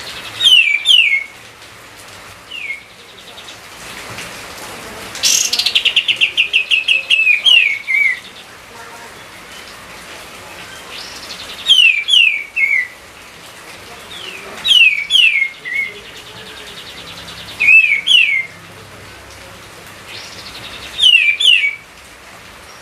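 A songbird singing short phrases of falling whistled notes, repeated every two to three seconds, with one longer, rapid run of notes about five seconds in, over a steady background hiss.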